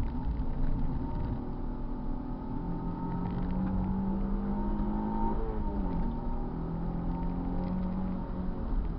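Car engine accelerating on a circuit, its note climbing, then dropping sharply at a gear change about five and a half seconds in before it pulls on again.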